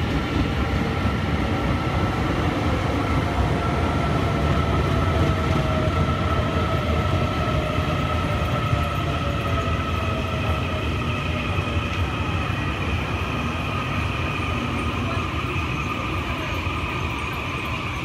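Taiwan Railway train moving through the station: a steady low rumble of wheels on track with a whine that slowly falls in pitch, fading slightly toward the end.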